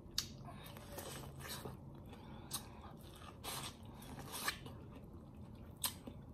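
Corn on the cob being bitten and chewed: scattered soft crunches and sharp little clicks as kernels come off the cob, fairly quiet.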